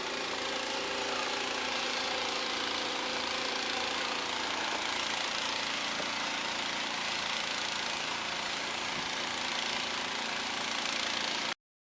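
An engine idling steadily, then cutting off suddenly near the end.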